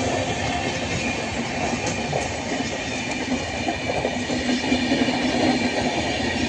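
Passenger train running on the rails, a steady rumble and rattle of its coaches over the track.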